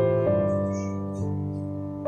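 Slow background piano music, with single sustained notes and chords that change every half second to a second and fade as they ring.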